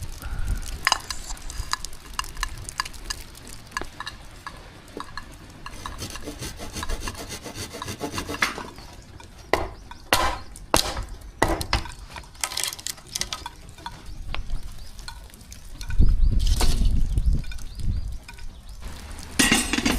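Hands-on camp-cooking handling sounds: many light clicks and taps with rubbing and scraping, a few louder strokes about halfway through, and a heavy low rumble about 16 seconds in.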